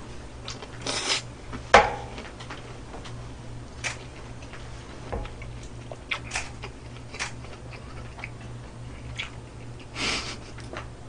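Close-miked chewing of a mouthful of grilled pork belly, with wet mouth clicks and smacks scattered through and one sharp click about two seconds in. Short breathy rushes come near the start and near the end, over a steady low hum.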